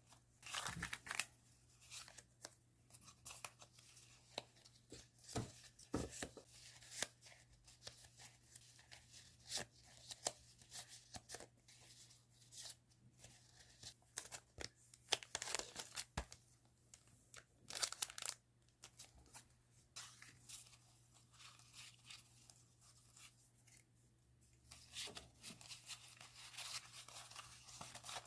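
Paper stationery and stickers being handled close up: irregular rustling, tearing and sharp clicks of paper, with a faint steady hum underneath.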